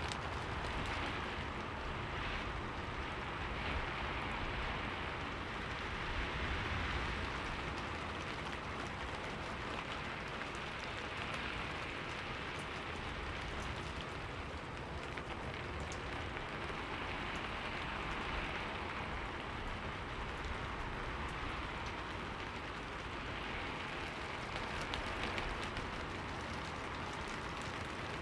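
Steady rain falling and pattering on a window, as a continuous even hiss with scattered drop ticks and gentle swells in intensity.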